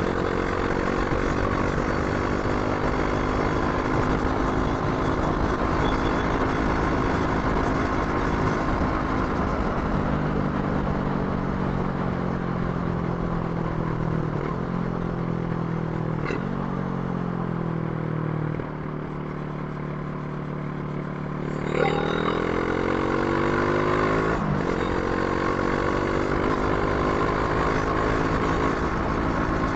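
Brixton Crossfire 500's 486 cc parallel-twin engine running under way, its note climbing and stepping with gear changes. About two-thirds through the throttle closes: the note drops and goes quieter. Then the revs climb sharply again and the bike pulls on through another shift.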